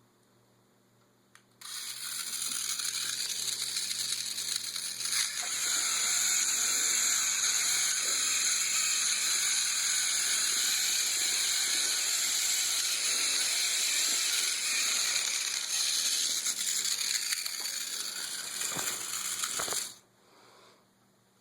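Schaper Stomper toy's small battery motor and gears whirring steadily as it drags a weighted pulling rig, starting suddenly about two seconds in and cutting off near the end.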